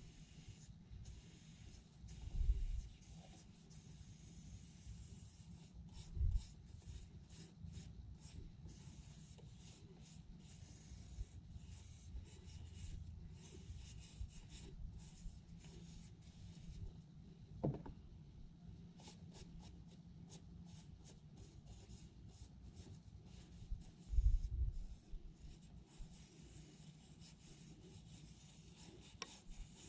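Scraping and rubbing of hand work on small parts, with many light clicks and three dull thumps.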